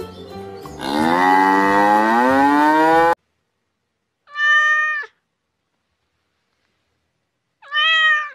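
A cow's long moo, rising steadily in pitch, that cuts off suddenly about three seconds in. Then a domestic cat meows twice, two short calls a few seconds apart.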